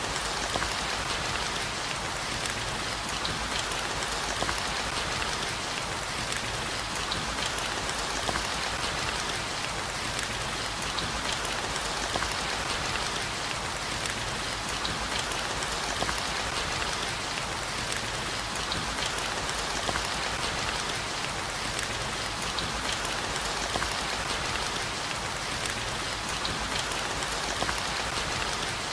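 Steady rain, a dense, even hiss of falling water with many small drop ticks scattered through it.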